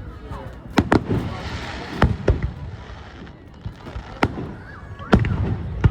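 Aerial fireworks bursting: sharp, loud bangs every second or two, with a hissing crackle after the bangs early on, and crowd voices faint beneath.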